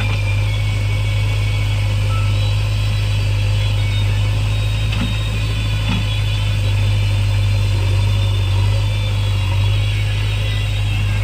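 Backhoe loader's diesel engine running at a steady speed, a deep even hum that does not change.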